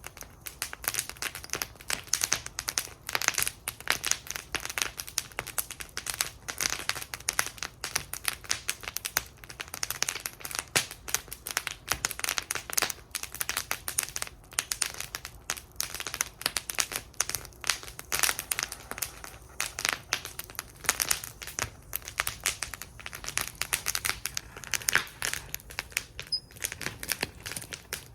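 Wood fire burning in a metal fire bowl, crackling steadily with a dense run of sharp pops and snaps.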